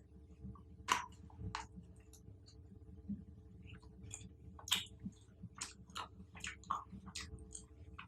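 Close-miked chewing of chocolate-covered fruit: irregular sharp mouth clicks and crunches, roughly two a second, loudest about a second in and again near the middle, over a steady low hum.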